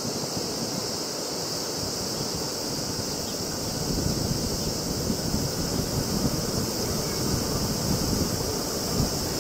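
E3-series Shinkansen trainset approaching, its low rumble growing louder from about four seconds in over a steady high hiss.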